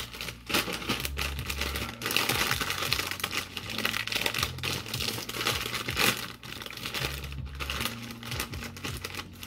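Bag of kettle chips crinkling and rustling as it is shaken and handled.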